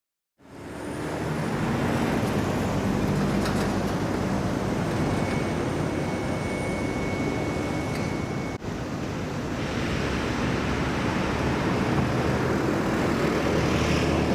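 Street traffic noise: vehicle engines running over a steady road noise, starting about half a second in, with a momentary break about eight and a half seconds in.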